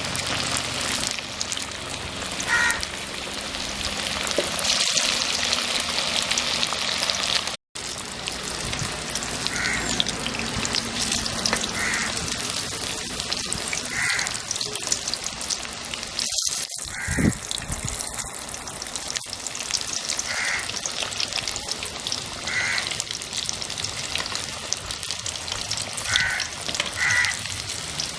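Chicken vadas deep-frying in hot oil: a steady crackling sizzle. A crow caws now and then in the background, about nine short calls, and the sound drops out for an instant about eight seconds in.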